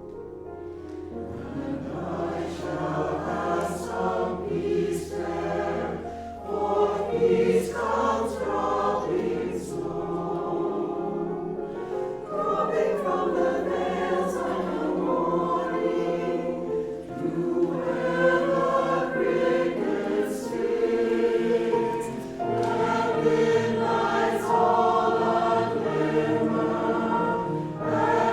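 A mixed choir singing in parts, with full sustained chords. A steady low note sounds beneath roughly the first twelve seconds.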